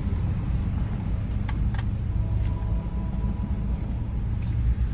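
A car's engine idling, a steady low rumble heard from inside the cabin, with two light clicks in quick succession about a second and a half in.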